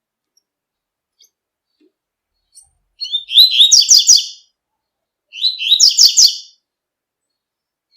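Double-collared seedeater (coleiro) singing the tui-tui song type: two phrases of rapid high chirping notes, each a little over a second long, the second following about a second after the first.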